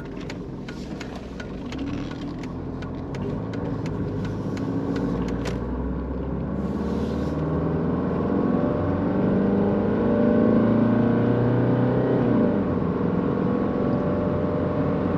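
Mercedes-Benz W201 190D diesel engine accelerating under load, its note rising steadily in pitch and getting louder, with a brief drop in pitch near the end before it climbs again. A few sharp clicks sound in the first few seconds.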